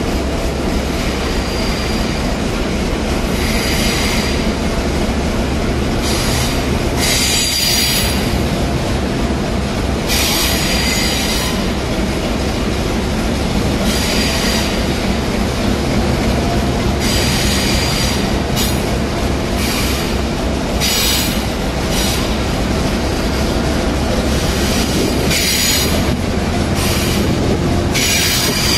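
CRH5A high-speed electric multiple unit pulling slowly into the platform. It makes a steady rolling rumble, with short high-pitched squeals coming and going every few seconds.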